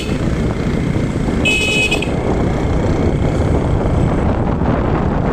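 Steady low rumble of a vehicle on the road, with wind on the microphone. A vehicle horn toots once, for about half a second, a second and a half in.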